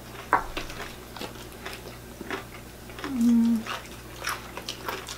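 Close-up eating of crispy fried chicken: a series of short, sharp crunches and chewing sounds as the breading is bitten. About three seconds in comes a short hummed "mm" from one of the eaters.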